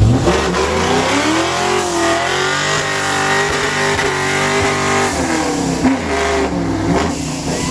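Car engine revved hard and held at high revs during a burnout, dipping briefly about five and a half seconds in and then climbing again, over a steady hiss of spinning tyres.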